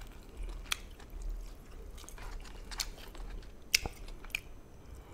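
A person chewing a mouthful of jjamppong noodles and seafood close to the microphone, with a few short, sharp clicks spread through the chewing.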